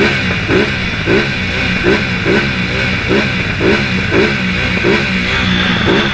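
Superbike engine revved in quick repeated throttle blips, about two a second, over a steady running note.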